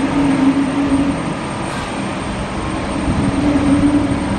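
Jet airliner engines running: a loud, steady noise with a droning hum that swells near the start and again about three seconds in.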